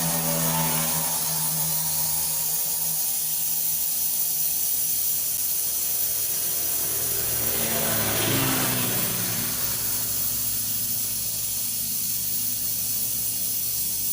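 Steady hiss of pressurised gas in a refrigerator capillary-tube repair, with a low hum underneath that shifts about eight seconds in.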